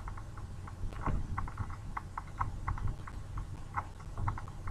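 Light, irregular clicking and tapping on the laptop, several small ticks a second, picked up close by its built-in microphone over a faint low hum.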